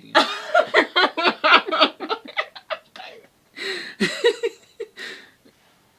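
A person laughing hard in a quick run of pulses, trailing off into a few breathy laughs near the end.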